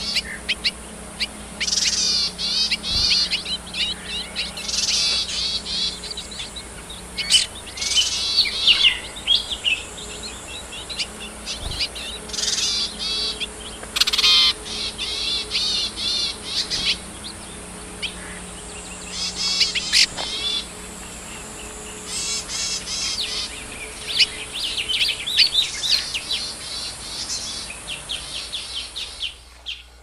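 Yuhina chirping: rapid, high twittering phrases that come in bursts every second or two, over a faint steady hum. The sound cuts off abruptly just before the end.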